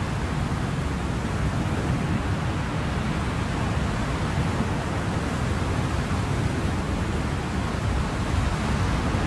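Ocean surf: a steady, continuous wash of waves, heaviest in the low end, with no single breaker standing out.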